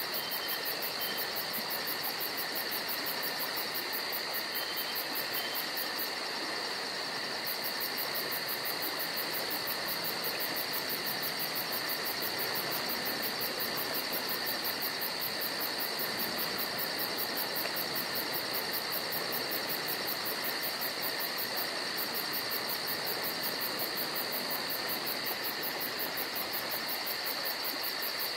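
Steady chorus of crickets and other insects: continuous high trilling with a fast, even pulsing higher still, unchanging throughout.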